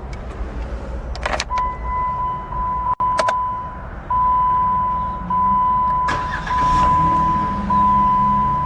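The 2011 Jeep Wrangler's 3.8-litre V6 idling, heard from inside the cab, with a few sharp clicks. From about a second and a half in, a high steady tone repeats about once a second, like an in-car chime.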